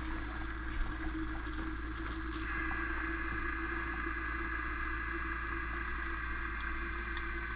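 GEVI pour-over coffee machine's hot-water pump running with a steady hum, pushing 208 °F water through. A little over two seconds in, the sound of flowing, spraying water joins the hum and carries on.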